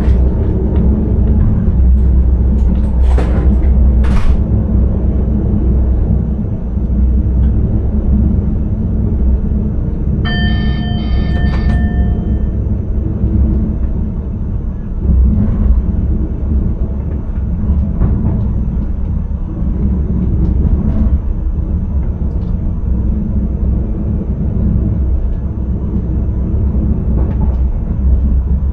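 Intercity train running, heard from the driver's cab: a steady low rumble, with two sharp knocks a few seconds in and a short electronic chime of a few quick repeated strokes about ten seconds in.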